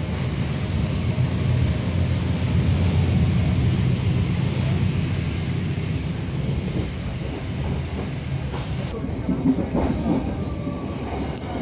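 Running noise of a local passenger train heard from inside the carriage: wheels rolling over the rails with a steady low rumble.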